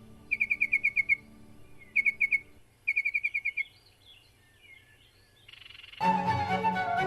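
A songbird singing: three quick trills of rapidly repeated notes in the first four seconds, with softer twittering between them. Background music comes in near the end.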